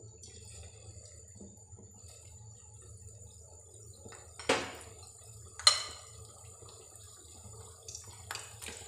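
Grated-potato batter frying in hot oil in a shallow pan: a faint sizzle and bubbling starts just as the batter goes in. Two sharp clicks sound about halfway through.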